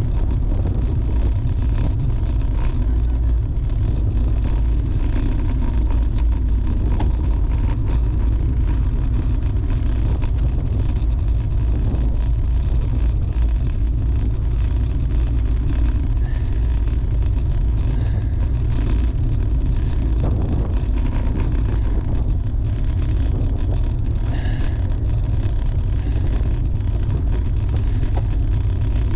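Steady low rumble of wind buffeting the microphone of a camera riding along on a moving bicycle, with a hiss of air and road noise over it.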